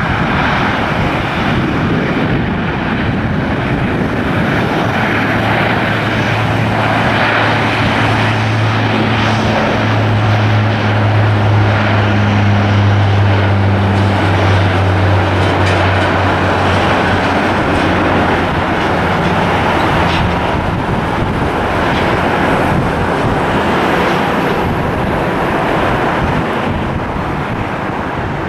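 Jet airliner's engines heard as a loud, steady rush, with a low drone that comes in about five seconds in and fades out around twenty seconds.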